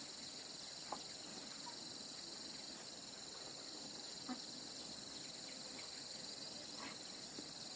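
Steady high-pitched insect chorus, with a few faint knocks about one, four and seven seconds in.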